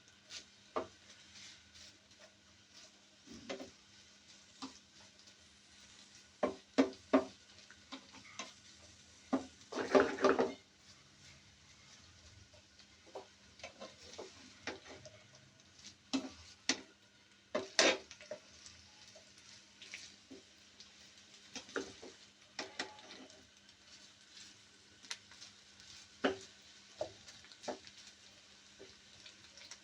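A utensil stirring food in a cooking pot: irregular knocks and scrapes against the pot, with a burst of quick scraping about ten seconds in, over faint sizzling. A low steady hum runs underneath.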